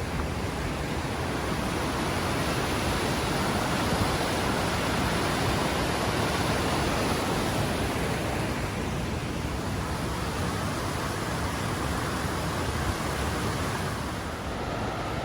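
Steady rushing of a mountain creek's cascading water, a continuous loud wash that swells a little midway.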